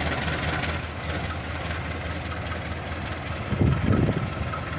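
Diesel locomotive engine idling with a steady low hum, which swells briefly into a louder rumble near the end.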